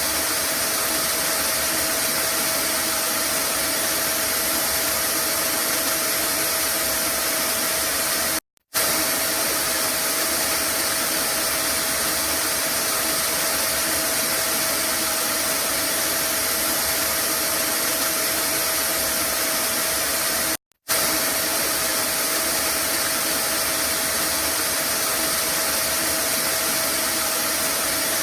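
Vacuum cleaner running steadily: an even rushing whoosh with a steady motor whine. It cuts out completely for a split second twice.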